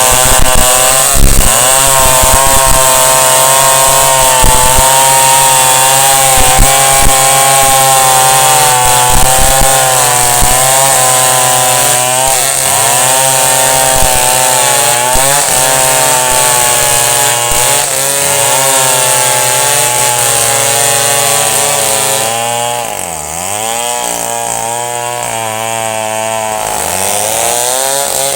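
Chainsaw running at high revs while cutting wood, its pitch wavering under load. Near the end the revs drop sharply twice and pick up again.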